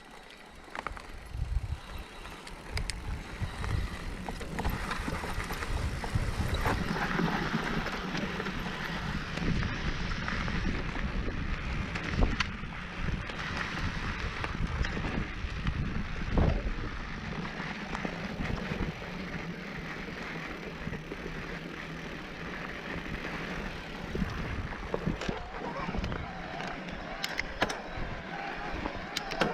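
Mountain bike ridden along a dirt trail: tyre noise and scattered clicks and rattles, with wind buffeting the microphone.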